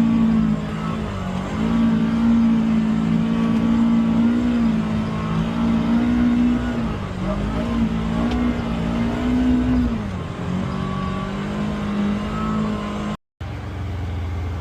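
UTV engine pulling steadily under load on a trail climb, its pitch sagging briefly about four times as the throttle eases and comes back. Near the end the sound cuts out for a moment and returns as a lower, steadier engine note.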